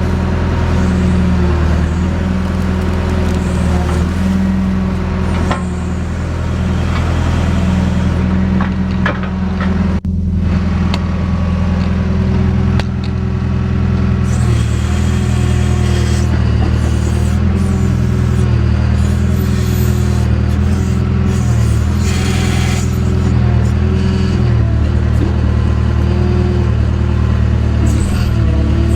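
JCB backhoe's diesel engine running steadily, its note dipping and recovering repeatedly in the second half as it works under changing load. A few knocks are heard early on, and there is a brief hiss a little after halfway.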